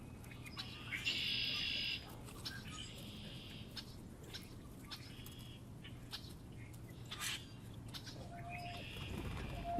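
Small birds chirping and calling at a feeder, in several short bouts, the loudest about a second in. A steady low hum runs underneath.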